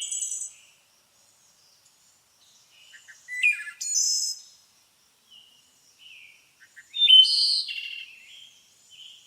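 Songbird song: short, bright, high-pitched phrases every three to four seconds, with a few soft single notes in between.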